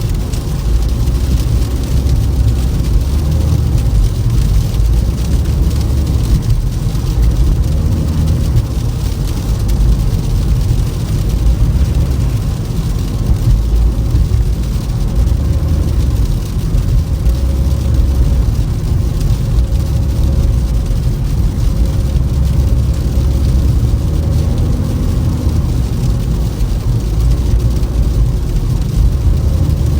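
Toyota Camry driving on a snowy road: a steady low rumble of tyres and engine with a faint droning hum, and no sudden events.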